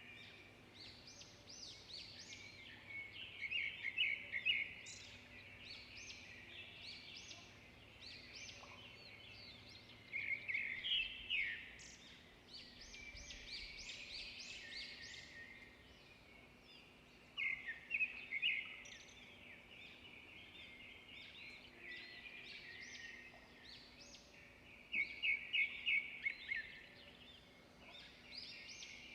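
Birds chirping and singing over a faint steady background hiss, with louder bursts of quick repeated high notes about every seven seconds.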